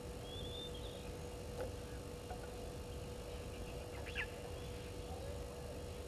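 Birds calling in the bush: a short high whistled note near the start and a brief quick burst of calls about four seconds in, over a steady faint hum and low outdoor rumble.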